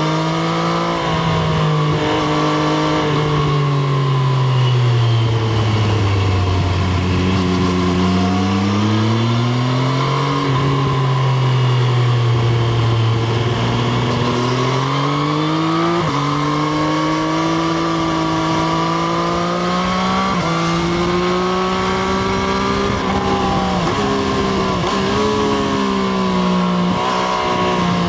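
Triumph Street Triple RS's inline three-cylinder engine heard onboard with wind noise, its pitch easing down over the first several seconds, then climbing again, with gear changes about ten and sixteen seconds in before it settles into steady cruising with small rises and dips.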